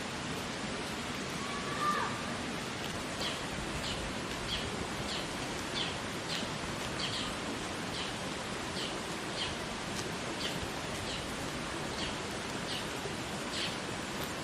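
A bird calling over and over, short high downward chirps coming about every half second or so from about three seconds in, over a steady rushing background noise.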